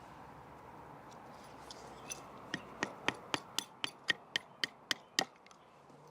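A wooden baton knocking on the spine of a partly opened Victorinox Ranger Swiss Army knife to split a stick: about a dozen sharp wooden knocks, around four a second, starting about two seconds in after some faint rustling.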